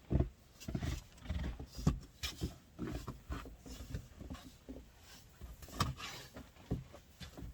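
Irregular crunching thumps and low rumbles of someone working through deep, freshly fallen snow, several a second in an uneven rhythm.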